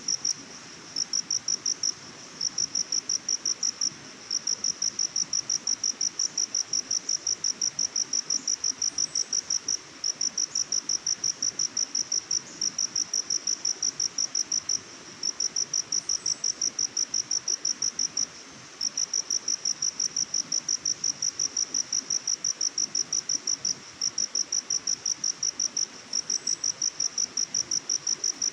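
Insect chirping in a fast, even series of high-pitched pulses, about four a second, that breaks off briefly every few seconds and starts again. Behind it is a faint, even hiss.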